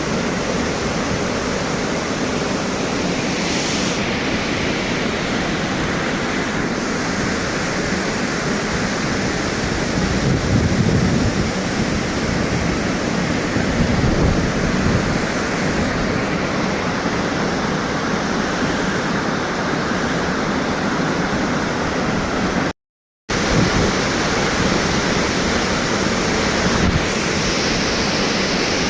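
Thomson's Falls, a 74-metre waterfall, roaring steadily as it plunges into the pool at its base, heard close up. The sound cuts out for about half a second around three-quarters of the way through, then resumes.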